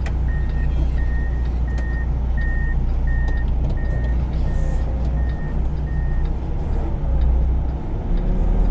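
A backup alarm beeping evenly, about one and a half beeps a second, until it stops about six seconds in, over the steady low rumble of a semi truck's diesel engine.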